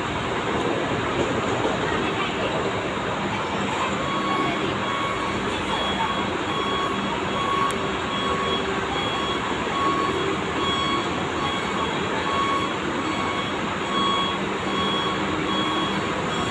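Diesel coach engine running amid steady bus-terminal noise, with a reversing alarm beeping evenly from about four seconds in.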